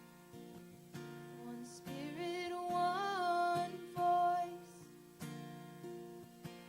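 Acoustic guitar strumming and picking in a gentle song accompaniment, with a held, wavering melody note rising over it about two seconds in.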